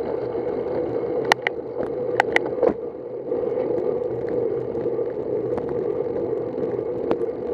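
Road bicycle riding on wet pavement: a steady rush of tyre and wind noise on the bike-mounted microphone, with a handful of sharp clicks or knocks between about one and three seconds in.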